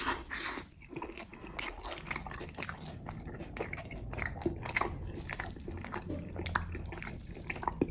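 A person biting into and chewing a mouthful of cheeseburger pizza close to the microphone, with many small mouth clicks and crackles of the crust.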